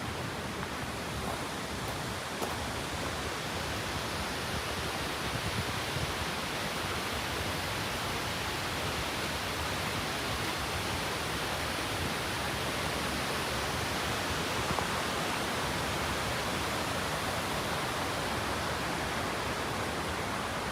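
Waterfall running steadily: an unbroken rush of falling water with no breaks or changes.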